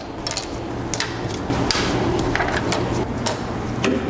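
Clicks, knocks and rubbing as plastic interior trim and its clips are handled and worked loose, over a steady low background hum.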